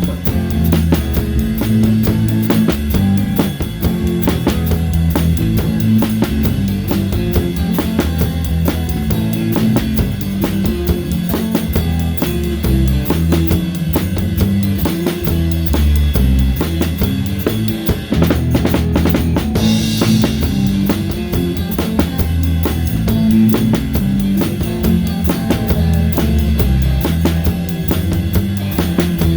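Live rock band playing, with a close drum kit in front: bass drum and towel-damped snare keep a steady beat over a moving bass line. About two-thirds of the way through, the band drops out for a moment, then a cymbal crash brings it back in.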